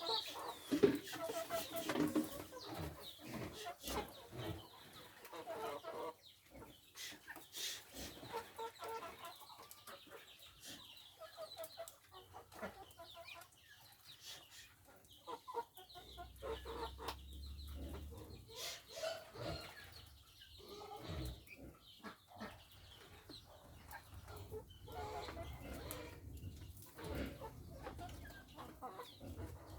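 Chickens clucking in short repeated calls, with scattered sharp clicks and knocks among them.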